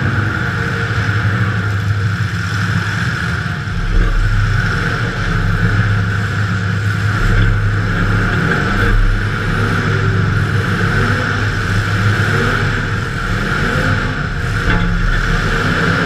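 Demolition derby car's engine running steadily with a constant low drone, heard from inside the car.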